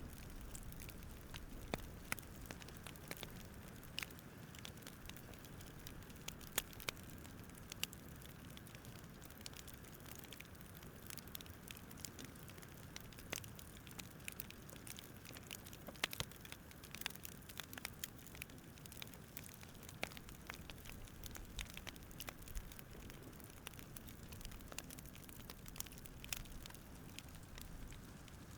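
Campfire crackling: irregular sharp snaps and pops scattered through, over a soft steady low rush of the fire.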